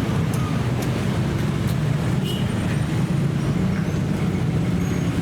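Passing train, a steady low rumble with a few faint light clicks.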